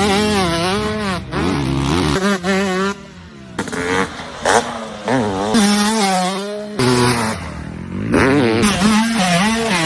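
Motocross dirt bike engines revving, the pitch rising and falling quickly as the throttle is worked. The sound changes abruptly about three and a half and about seven seconds in.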